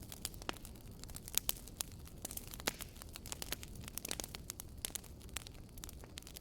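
Campfire crackling: frequent, irregular sharp pops and snaps over a low steady rumble, with a few louder snaps about a second and a half in and again just before the middle.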